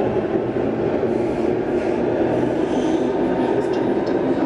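A train running on the rails, a steady loud rumble with a low hum throughout.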